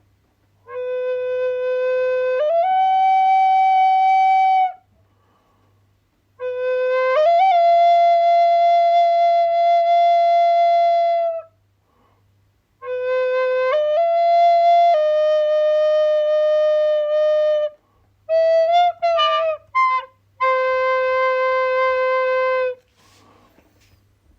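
Solo flute playing slow, long held notes in four separate phrases with short pauses between them, each phrase stepping between two or three pitches. Near the end comes a brief passage of quick, wavering ornamented notes before a final held note.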